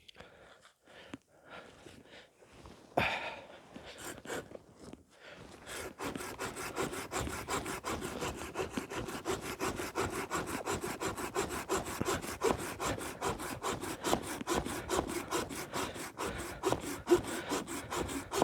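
Hand saw cutting through a green hazel branch with fast, steady back-and-forth strokes, starting about six seconds in after some handling noises and a knock.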